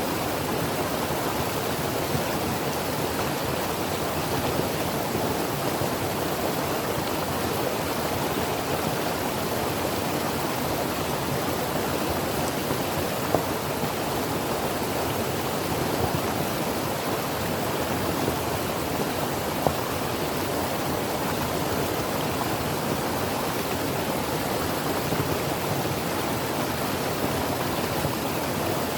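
Creek water running over rocks: a steady, even rush with small splashes now and then.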